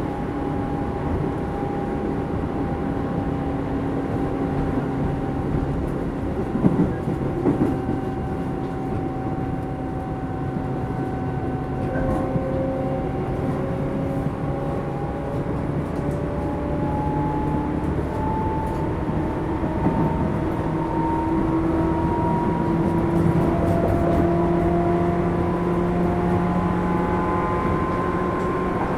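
Tobu 10000 series electric commuter train heard from inside a motor car: traction motor and gear whine over the rumble of wheels on rail. The whine sinks slightly, then rises steadily in pitch through the second half as the train picks up speed. There are a couple of knocks about seven seconds in.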